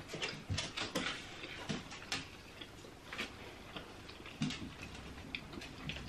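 Quiet chewing of sushi, with irregular small wet mouth clicks and light ticks.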